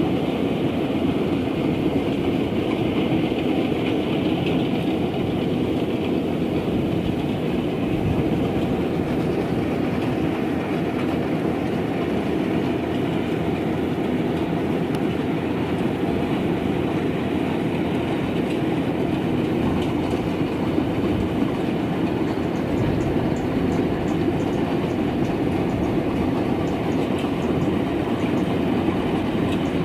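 Rice combine harvester running at work: a steady engine drone under a continuous clattering rattle.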